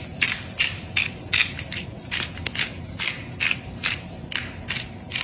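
Food being stirred by hand in a sink: a run of short scraping, rattling strokes, about three a second.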